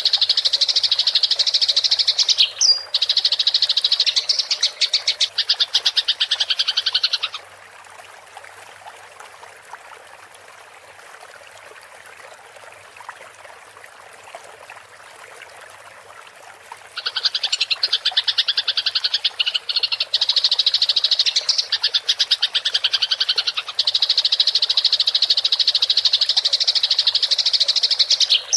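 Eurasian tree sparrows chattering in fast, continuous rattling trills, the agitated calls of sparrows fighting. The chatter stops about seven seconds in, leaving only a faint hiss for about nine seconds, then starts again.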